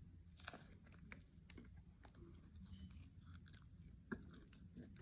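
Faint chewing and biting into a honey barbecue chicken strip sandwich, with a few soft scattered mouth clicks, the most distinct about four seconds in.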